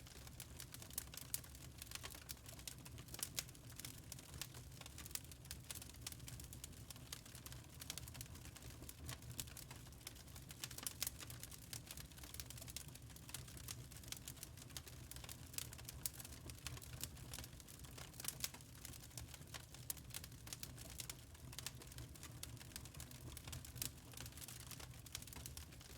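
Wood fire in a fireplace crackling, with dense, irregular small pops and snaps over a low steady rumble.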